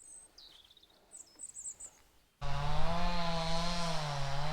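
Faint bird chirps, then about two and a half seconds in a motor-driven power tool or small engine starts abruptly and runs loud and steady at high speed, its pitch wavering slightly.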